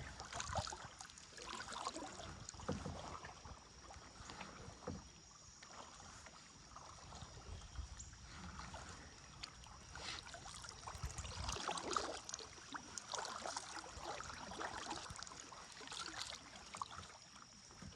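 Kayak paddle dipping and splashing in the river in irregular strokes, with water dripping off the blades.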